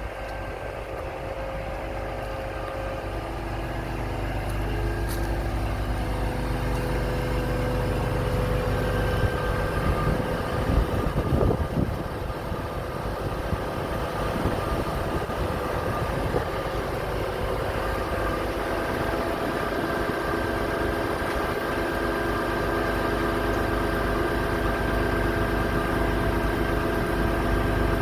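Scania R500 truck's V8 diesel engine running steadily, a hum of several steady pitches that grows louder over the first several seconds, with a brief rougher stretch about ten seconds in.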